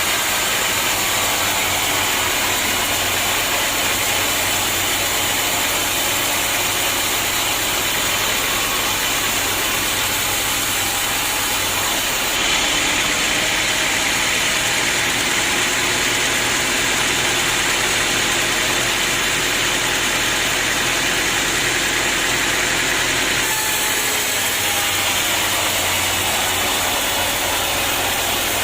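Sawmill machinery running steadily. A brighter, hissier stretch lasts from about twelve seconds in until about twenty-three seconds in.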